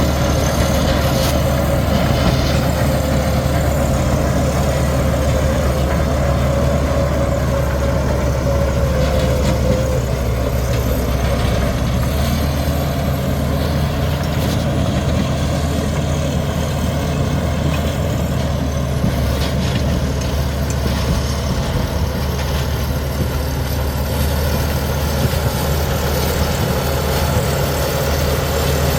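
Komatsu D61EX bulldozer's diesel engine running steadily with a low drone, and a higher steady whine over it that fades out about a third of the way in.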